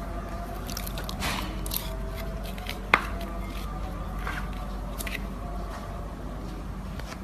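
Slime being worked by hand: wet squishing with scattered small clicks, and one sharper click just before three seconds in.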